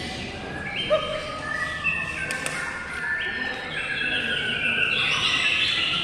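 Several songbirds chirping and singing at once, their calls overlapping.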